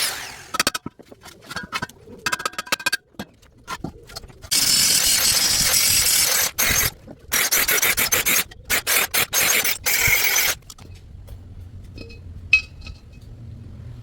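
Harsh scraping and rubbing in irregular bursts of strokes, quickening into short rapid strokes before stopping about ten and a half seconds in. A faint low hum remains after that, with a single sharp click near the end.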